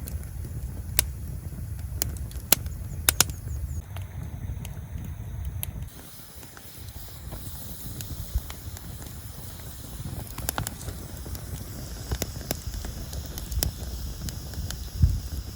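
Wood fire crackling in a small fire pit: scattered sharp pops over a low rumble that drops away about six seconds in.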